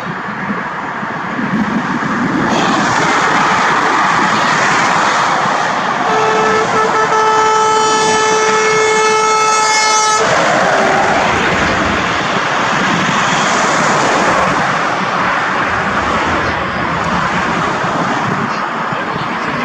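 Scania V8 truck running loudly. Its horn sounds one steady held blast of about four seconds, roughly a third of the way through.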